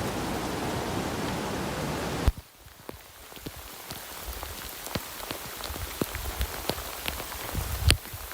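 Steady, heavy rain hiss that cuts off suddenly with a sharp knock a little over two seconds in. Then comes a quieter spell of scattered single raindrops ticking and dripping.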